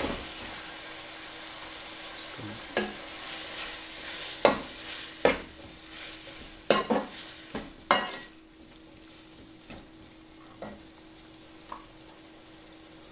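Tomato, onion and spice masala frying in a pan, a steady sizzle while it is stirred, with the spoon and spatula scraping and knocking against the pan several times. The sizzle fades about eight seconds in.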